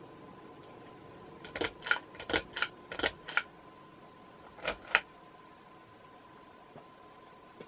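A quick run of about eight sharp clicks in two seconds, then two more about a second later, over a faint steady hum.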